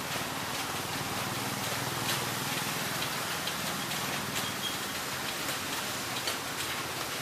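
Steady rain falling, a constant hiss with irregular sharp drips and ticks of drops striking hard surfaces.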